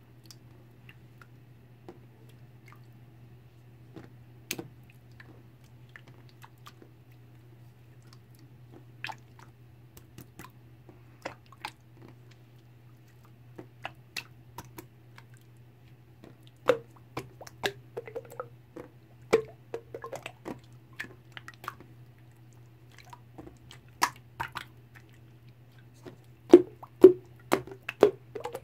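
Slime being squeezed and pressed by hand, giving irregular sticky clicks and wet pops, sparse at first and coming faster and louder in the second half. A steady low hum sits underneath.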